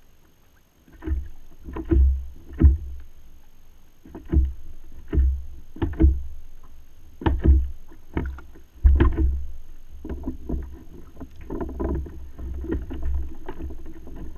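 Water splashing and knocking on a kayak in a series of irregular strikes, often about a second apart, with low rumble and wind on the microphone.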